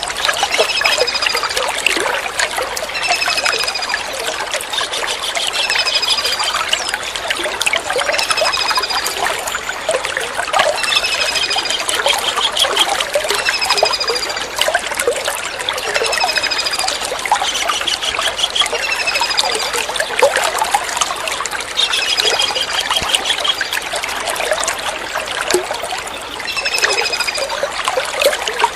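Kingfisher (tengkek udang/cekakak) giving short, sharp descending calls about every second and a half, with a few rattling trills mixed in, over steadily trickling water.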